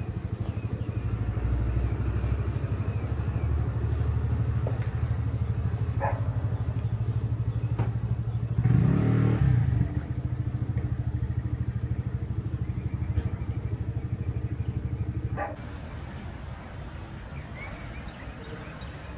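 A motor vehicle's engine running close by with an even low throb. It swells briefly about nine seconds in, then drops off sharply about fifteen seconds in, leaving quieter background noise.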